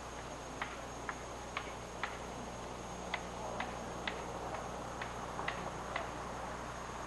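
A series of short, sharp knocks or ticks, about two a second, over a steady hiss and low hum.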